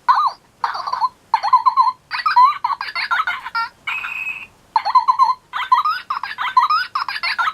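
Baby Birdy Bird electronic toy pet (a Furby knock-off) playing its sound effects through a small speaker: high, sliding electronic chirps and warbling babble in short bursts with brief pauses, and a steady whistle-like tone about four seconds in.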